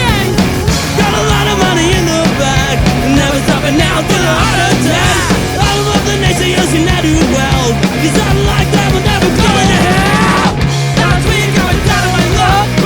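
Melodic punk rock played live by a three-piece band of drums, electric guitar and bass guitar, with a short break in the playing about ten and a half seconds in.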